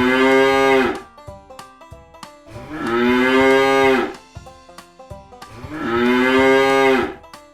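Cow mooing three times, each moo long and drawn out, evenly spaced, over quieter background music with plucked notes.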